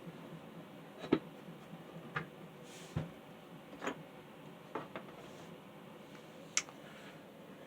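Light clicks and taps, about one a second at uneven spacing, from an old table fan's parts being handled and taken apart.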